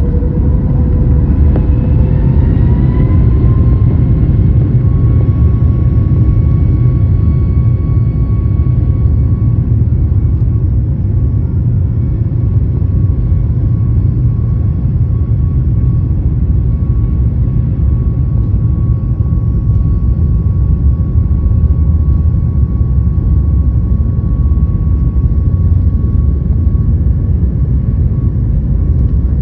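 Boeing 737 MAX 8's CFM LEAP-1B turbofan engines at takeoff power during the takeoff roll. A whine rises over the first few seconds, then holds steady above a loud, constant low rumble.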